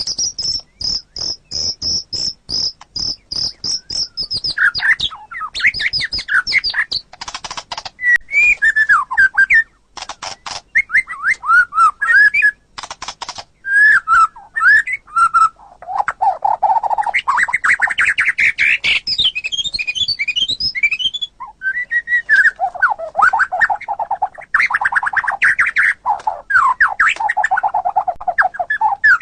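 White-rumped shama singing a long, varied song: a run of rapid high repeated notes, then changing phrases of whistled slurs, short harsh chatters and fast trills with brief pauses between them.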